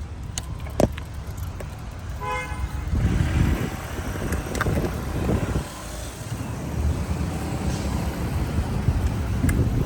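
City street traffic with a steady low rumble, and a short car horn toot about two seconds in.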